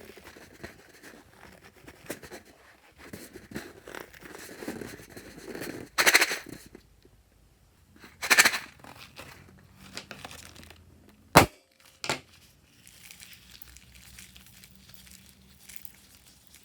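Crinkling and rustling from slime-making materials being handled, with louder bursts about 6 and 8 seconds in and one sharp snap about 11 seconds in.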